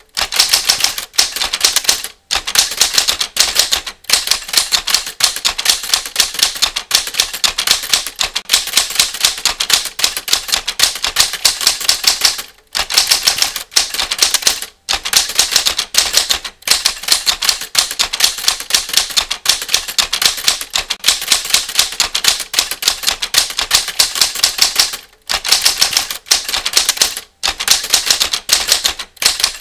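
Typewriter keystroke sound effect: rapid, even clacking of keys struck one after another, as in a typing drill, with short breaks every few seconds.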